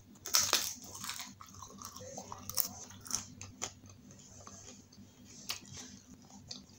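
A crunchy bite into a pani puri, the loudest sound, about half a second in, followed by close-up chewing with scattered sharp crunches of the crisp fried puri shell.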